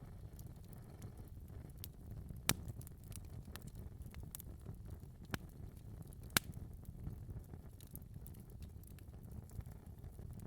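Wood fire burning in a fireplace: a steady low rumble of flames with scattered sharp crackles and pops, two louder pops about two and a half and six and a half seconds in.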